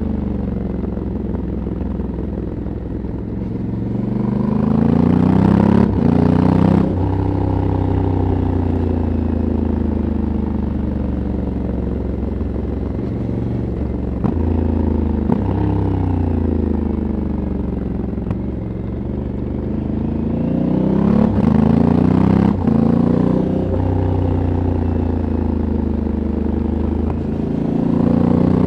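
Honda Africa Twin 1100's parallel-twin engine through its stock exhaust, heard from the rider's seat, revving up and easing off in turn: the revs climb four times and fall away slowly after each climb, with a few short sharp cracks near the top of the climbs.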